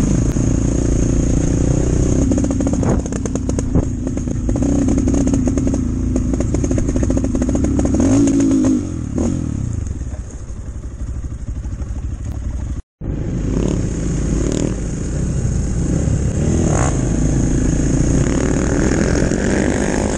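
Chinese enduro motorcycle engine running under throttle on a trail ride, with clatter from the bike over rough ground. The revs fall away about nine seconds in, and the sound cuts out for an instant near the middle before the engine is heard again.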